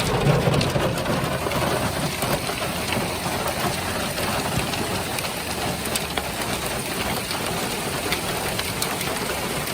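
Hail and heavy rain pelting down: a steady dense hiss with scattered sharp clicks of stones striking.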